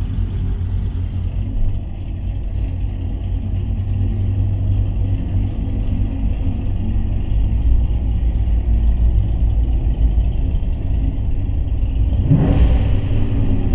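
Deep, steady rumble of car engines at low speed through a narrow tunnel. About twelve seconds in, one engine revs up briefly, its pitch rising.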